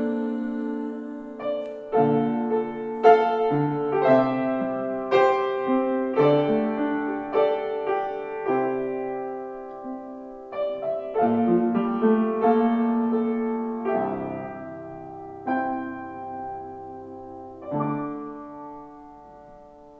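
Slow, quiet piano music: chords struck about once a second and left to ring, fading away near the end.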